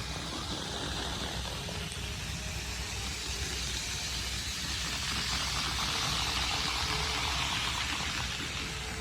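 KATO N-gauge Taiwan 700T Shinkansen model train running on its track: a steady rushing rumble of wheels on rail that swells as the train comes close, about five to eight seconds in, then eases.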